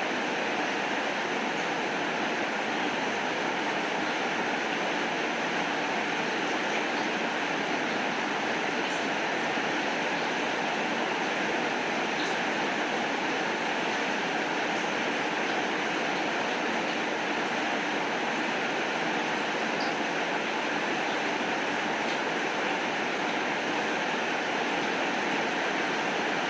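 Steady rain falling, an even hiss that never lets up, with faint scattered ticks of individual drops or crackles.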